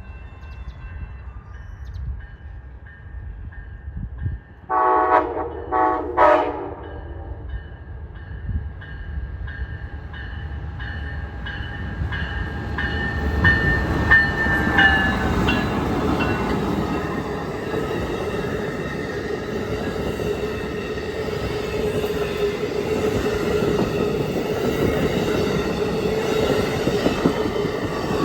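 A bell rings steadily while a train approaches. About five seconds in, the train sounds its multi-tone horn in a few blasts. Then it passes close by with a loud, steady rumble of wheels on rail.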